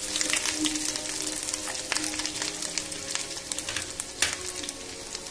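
Cashew nuts and ginger frying in hot oil and ghee in a nonstick pan: a steady sizzle full of small crackling pops, with one sharper pop about four seconds in.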